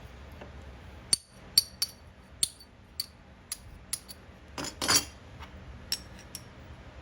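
Small pieces of metal scrap from a dismantled fog light clinking as they are dropped or handled. There are about ten separate clinks, each with a short bright ring, at uneven spacing, and a longer clattering rattle about two-thirds of the way in.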